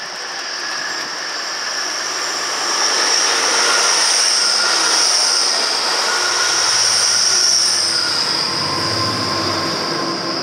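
Train moving through the station with a high, steady metallic squeal over a rail rumble, growing louder to a peak in the middle and then fading.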